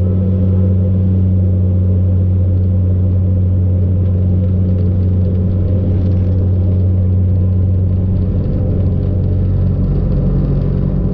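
Cabin noise of a Saab 340B twin turboprop heard from a seat behind the wing, engines and propellers at takeoff power: a loud, steady drone with a deep hum from the propellers.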